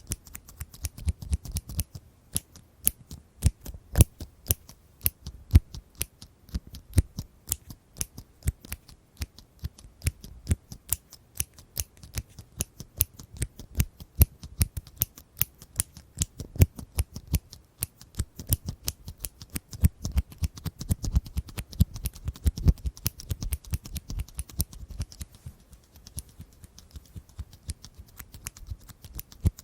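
Scissors snipping over and over, a quick run of sharp crisp clicks, several a second, with short uneven pauses.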